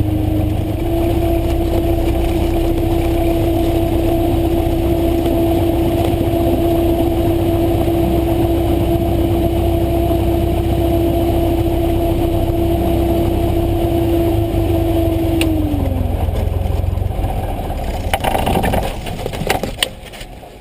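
Cessna 172 SP's four-cylinder Lycoming engine and propeller running steadily at taxi power. About three-quarters of the way through the pitch slides down as the throttle is eased back, and the sound drops away sharply near the end.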